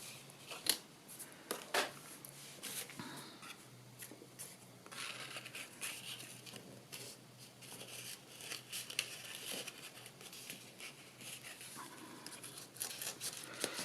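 Faint rustling and crinkling of paper being handled close up, with scattered small clicks and taps, as the corners of a paper piece are curled up by hand.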